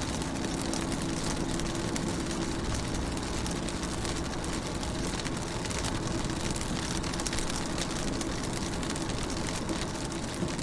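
Steady rain falling on a car's windows and body, heard from inside the car: a dense hiss of fine drop ticks over a steady low hum.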